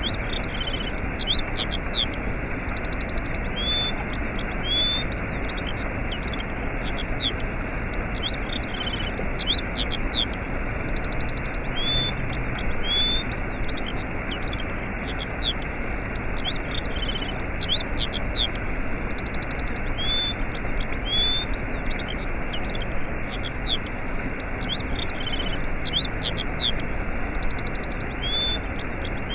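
Steady rush of a waterfall with small birds chirping and trilling over it, the same run of calls coming back again and again.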